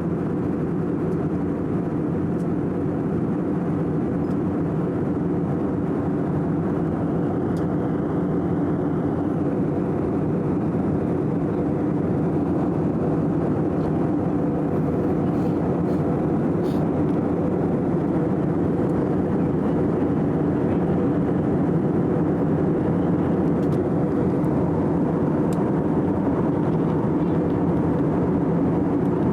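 Steady drone of engines and rushing air inside a passenger airliner's cabin in flight, a low even hum that grows slightly louder toward the end.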